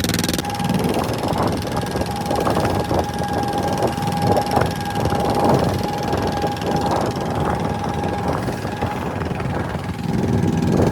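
Fishing boat's engine running steadily at sea, with a constant whine over a rough din and irregular knocks.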